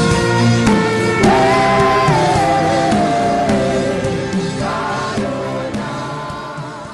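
Gospel worship song sung by a congregation and choir with musical accompaniment, gradually fading out over the last few seconds.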